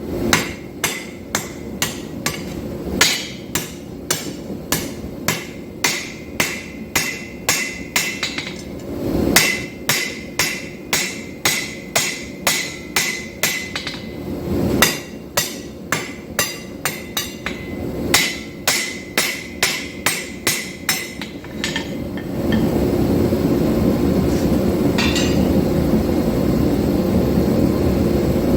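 A three-pound forging hammer strikes hot 5160 steel bar stock on an anvil, about two ringing blows a second with brief pauses, drawing out the blade. About 22 seconds in the blows stop and a steady roar takes over.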